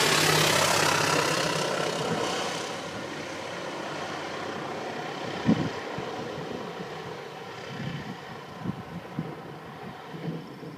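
Float plane's propeller engine passing low overhead, loudest at the start and fading away over the first few seconds as it descends to land. A single sharp knock sounds about halfway through.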